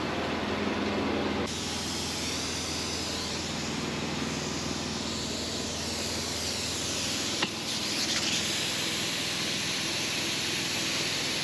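Steady hiss of compressed air flowing through an air chuck into a truck tire as it is inflated, over a steady low hum. There is one sharp click about seven and a half seconds in.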